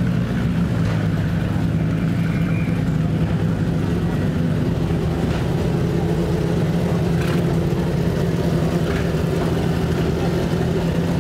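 McLaren MP4/4's Honda 1.5-litre turbocharged V6 running steadily, its pitch holding level.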